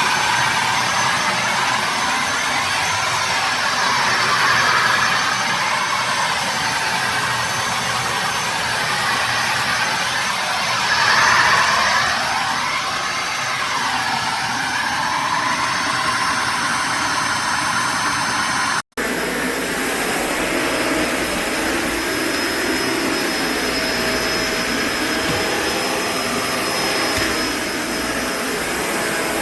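Kenmore BU4050 bagged upright vacuum cleaner running, its motor whine wavering up and down in pitch. It cuts out for an instant about two-thirds of the way through, then carries on with a slightly different tone.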